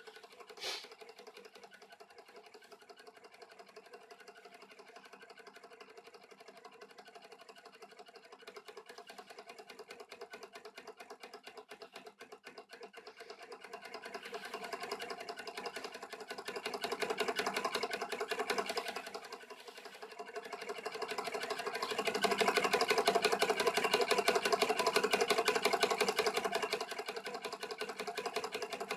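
Homemade beta-type Stirling engine running, a fast, even mechanical clatter. A sharp click comes near the start. The running grows louder about halfway through, dips briefly, then stays louder toward the end.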